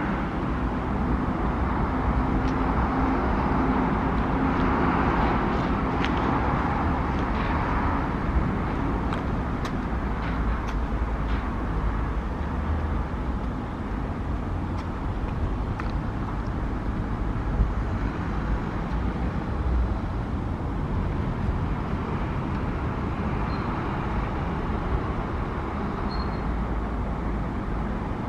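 Steady outdoor ambience: a continuous low rumble of distant road traffic under an even hiss, with a few faint clicks. Three brief, faint high chirps come near the end.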